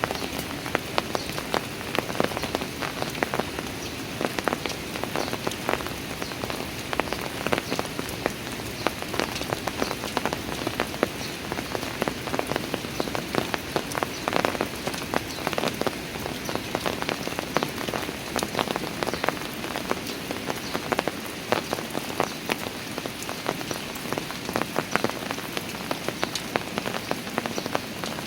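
Steady rain falling on park stone steps, with many close, irregular drop impacts over an even hiss of rain.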